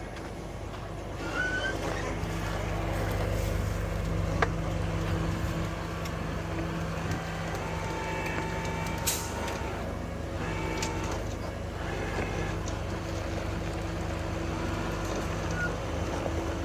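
Truck engine running steadily while it pulls to free a stuck tractor, getting louder about a second in. Short squeaks, a sharp click and a brief hiss sound over it.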